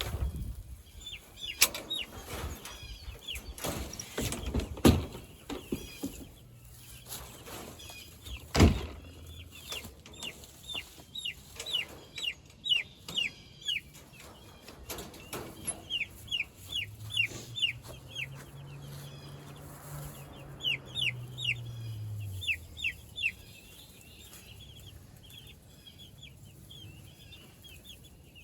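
Broiler chicks peeping in quick runs of short, falling peeps. Several sharp knocks come through, the loudest about eight and a half seconds in, and a low hum swells and fades in the second half.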